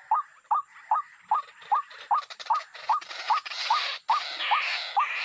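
A bird's short, hooked call repeated steadily, about two and a half times a second, with a louder hissing noise joining about halfway through.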